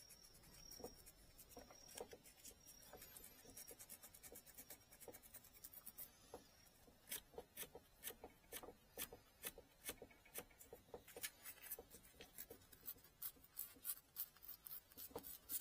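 Faint, quick scraping strokes of a small blade cutting and shaving a bamboo rod tip, sparse at first and then coming about two to three a second.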